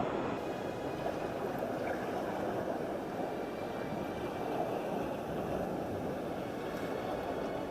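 Steady rush of ocean surf washing against a rocky shore.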